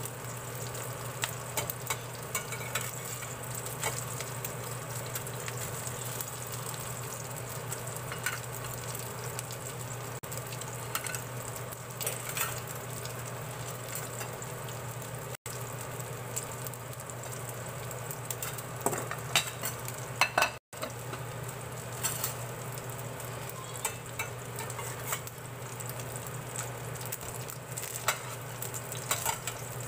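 Okoy (shrimp fritters) sizzling as they shallow-fry in a stainless steel pan, with a spatula scraping and clicking against the pan now and then as they are turned, the sharpest clicks about twenty seconds in.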